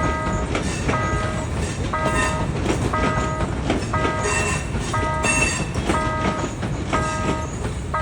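Level-crossing warning bell ringing on and off about once a second, while a train passes over the crossing with a steady rumble and clickety-clack of wheels over rail joints.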